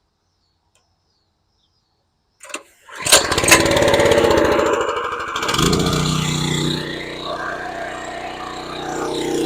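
Small gas engine of a pressure washer started, catching about three seconds in after silence, then running steadily.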